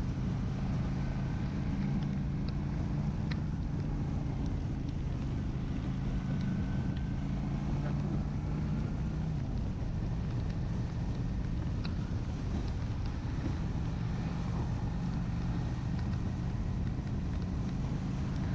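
Honda Shadow 750's V-twin engine running steadily at road speed, with wind rushing over the microphone; the engine note shifts slightly about halfway through.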